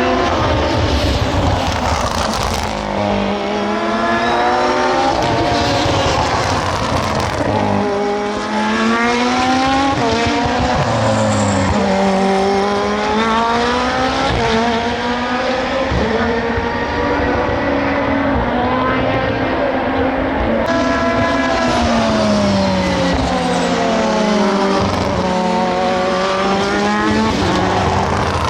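SUPER GT racing car engines running hard past the trackside, several cars overlapping. Their notes climb and drop again and again as they shift gears and brake.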